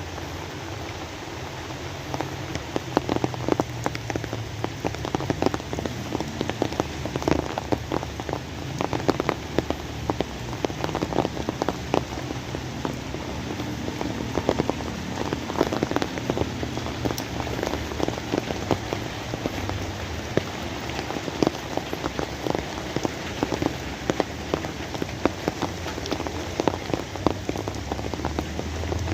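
Steady rain falling, with many close drops striking a surface in sharp taps over a constant hiss; the tapping gets denser and louder about two seconds in.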